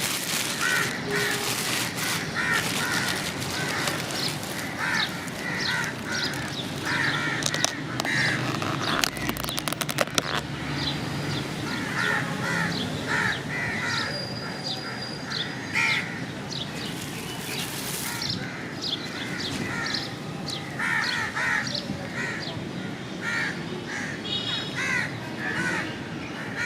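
Many crows cawing, short harsh calls repeated and overlapping, with a quick run of sharp clicks about nine seconds in.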